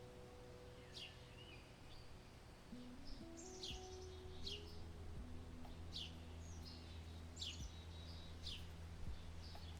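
Small birds calling, short high chirps that fall in pitch, repeated about once a second, over a low steady hum.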